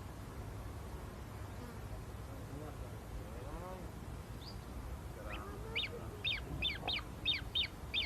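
A bird calling a quick run of short, high, falling chirps, about three a second, starting a little past halfway, over a steady low rumble.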